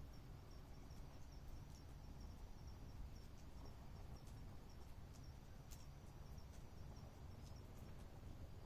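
Faint night insect chirping in a steady, even rhythm of about two or three short high chirps a second, over a low steady rumble, with a few faint sharp clicks.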